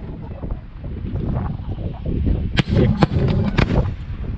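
Aerial fireworks going off: a continuous low rumble of shell bursts, then several sharp bangs in quick succession a little past halfway.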